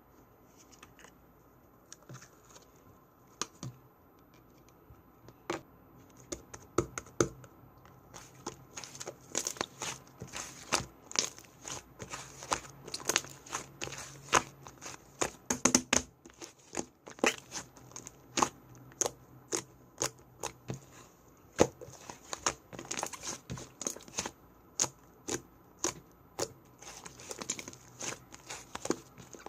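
Slime being squished and worked, giving a stream of sharp pops and crackles that gets much busier after about eight seconds.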